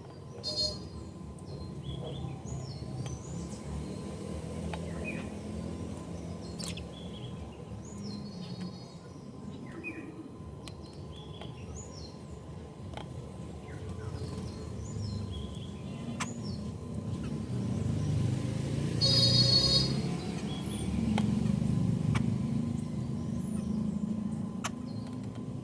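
Birds chirping in short, scattered calls over a steady low background rumble, with one louder call about nineteen seconds in.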